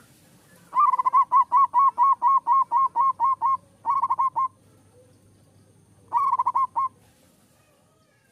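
Zebra dove (perkutut) singing: a fast, even run of about fourteen short notes, then a brief burst of about five, and after a pause of about two seconds another short run of about six.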